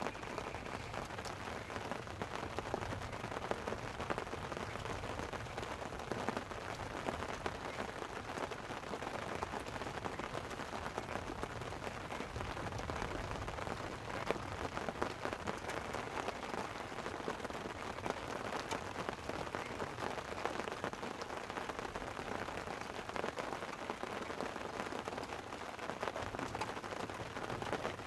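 Light rain falling on a tent: a steady, dense patter of small drops with scattered sharper ticks.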